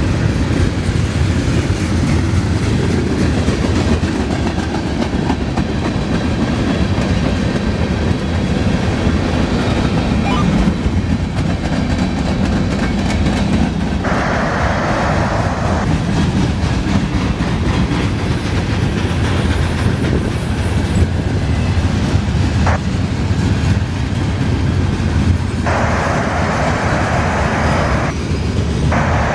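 Freight train cars rolling past with a steady rumble.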